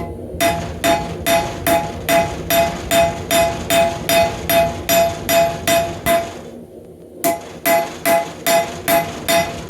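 Hammer striking hot rebar on an anvil in a steady rhythm of about two blows a second, each blow ringing. The hammering stops for about a second past the middle, then picks up again at the same pace.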